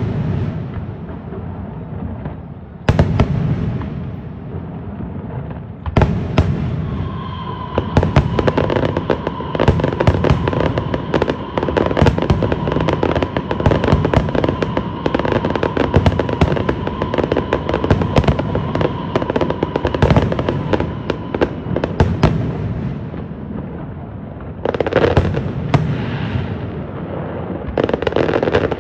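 Aerial fireworks display: shells bursting with loud booms, then a long stretch of dense, rapid crackling from many shells at once, with a steady high tone running through the middle of it, before a few more bursts near the end.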